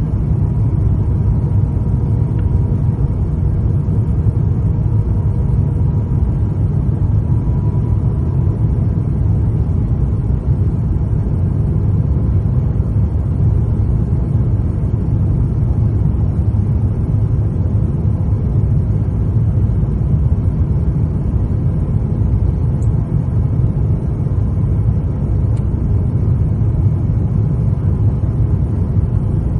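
Steady low rumble of engine and airflow noise inside the cabin of an Airbus A350-900 jetliner descending on approach, with a faint steady hum over it.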